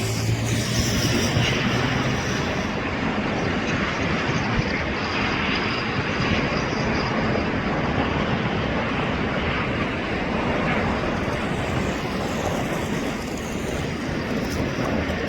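Airbus A320 jet engines at takeoff power, a steady broad roar with a faint high whine in the first few seconds.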